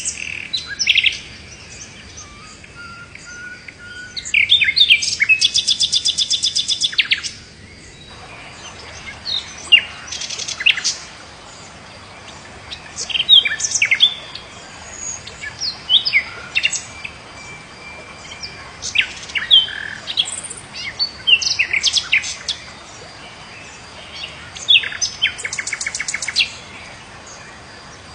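Birds singing: scattered short sharp chirps and calls throughout, with a rapid trill about four seconds in and another near the end, over a faint steady background hiss.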